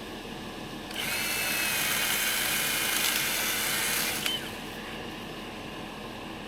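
A power saw cutting alder brush: it starts about a second in, runs with a high motor whine over a rasping cut for about three seconds, then stops abruptly.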